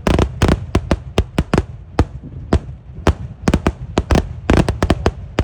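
Kerala temple-festival fireworks: loud explosions going off one after another, several a second at an uneven pace, some in quick clusters of two or three.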